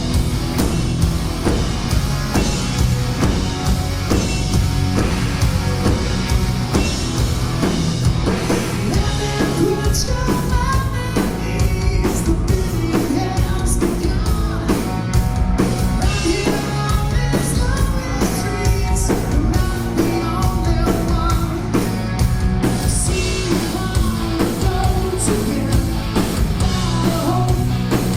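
Live hard rock band playing loud in a small venue: drum kit pounding a steady beat under bass and distorted guitars, with a singer's voice over the top.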